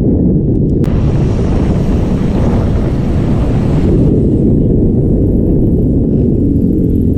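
Wind buffeting the microphone of a camera riding along on a moving bicycle: a loud, steady low rumble, with a brighter hiss joining in from about one to four seconds in.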